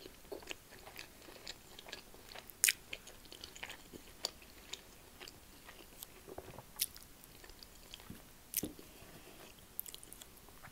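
Close-miked chewing of soft food, tender lamb shank and mashed vegetables, with wet mouth sounds and a scattering of sharp clicks.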